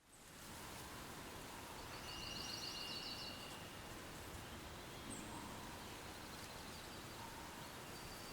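Faint outdoor nature ambience fading in: a steady low hiss with a few bird chirps, including a short trill and a thin held whistle about two seconds in, and a quick falling chirp a little after the middle.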